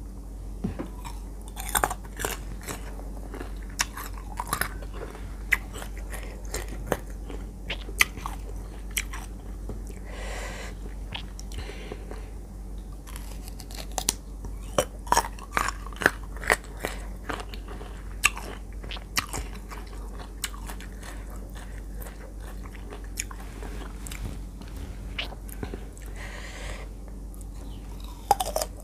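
Crisp bites and crunchy chewing of firm, unripe green mango slices, close to the microphone, with many sharp crunches throughout.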